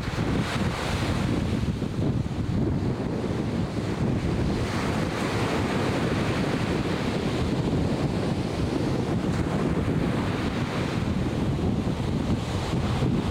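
Atlantic Ocean surf washing steadily, with wind rumbling on the microphone.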